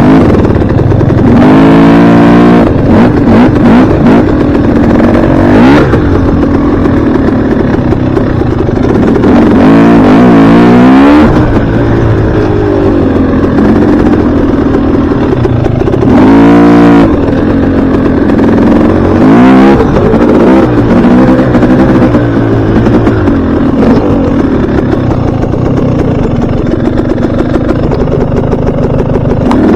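Dirt bike engine being ridden hard, its pitch repeatedly climbing with the throttle and dropping off again every few seconds, loud throughout.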